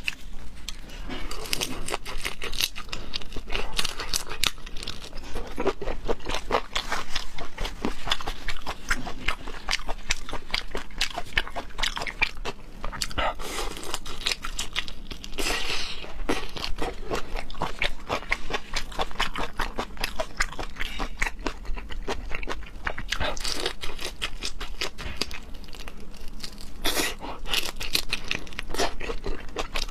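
Close-miked eating: a continuous run of crisp crunches and chewing, with louder bursts of crunching now and then.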